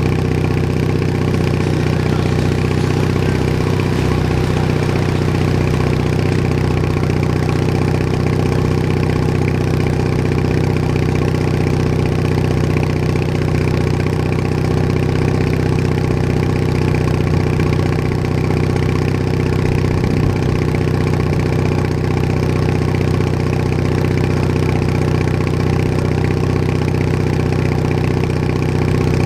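Bolens HT20 garden tractor engine running steadily at an even speed, heard from the seat while cruising.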